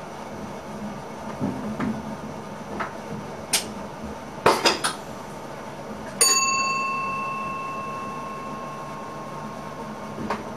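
Running noise inside an ICM train cab with a few sharp clicks, then a single bell strike about six seconds in that rings on and fades away over some four seconds: the cab's signalling bell.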